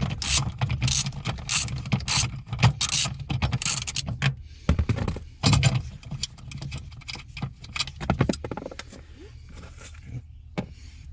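Repeated clicks, knocks and clattering of hands and tools working on metal and plastic parts under a truck's dashboard, dense at first and thinning out near the end.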